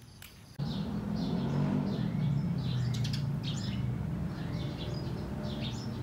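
Birds chirping outdoors: many short, high chirps in quick succession with a few falling calls, over a steady low hum. It all starts abruptly about half a second in.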